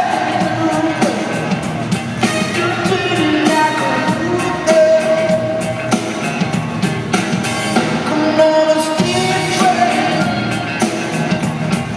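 Live rock band playing an upbeat song with a steady drum beat, with a male lead vocal singing over it.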